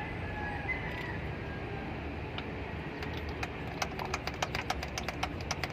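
Hand priming pump on a truck diesel's fuel system being worked, clicking at about three to four strokes a second from about three seconds in. A steady low engine hum runs underneath.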